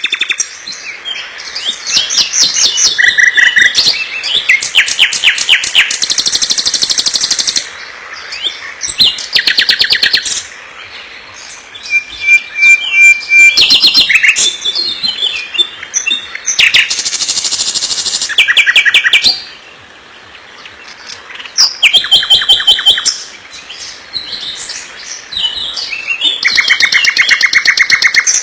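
Small songbirds singing loudly: rapid trills and chirps in phrases a few seconds long, with short quieter gaps between them.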